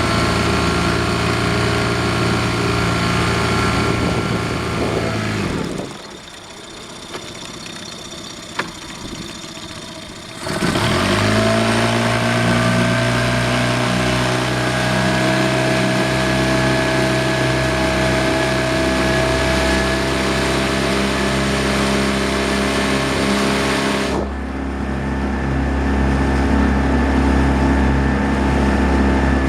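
Engine of a 14-foot wasen running. It throttles down about five seconds in and runs low and quiet for about five seconds, then revs up sharply and runs steadily at higher speed, easing back a little near the end.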